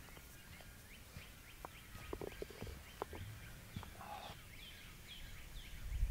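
A bird chirping repeatedly in the trees: short high chirps that come about three a second in the second half, over a low hum of outdoor background noise, with a few faint light clicks.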